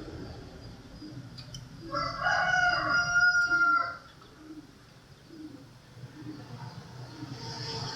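A single loud bird call, about two seconds long, starting about two seconds in, with several pitched tones sounding together, over a steady low background noise.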